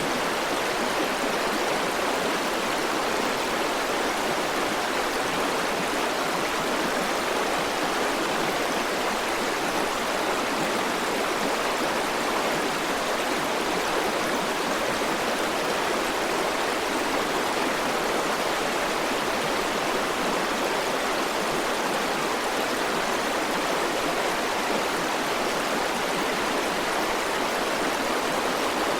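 River water rushing and burbling steadily over rocks, an even, unbroken sound.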